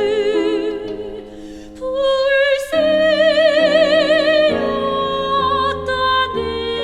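Korean art song (gagok) in classical style for soprano and piano trio: a slow, sustained melody with wide vibrato over held accompaniment notes. The music dips briefly about two seconds in, then the melody comes back louder.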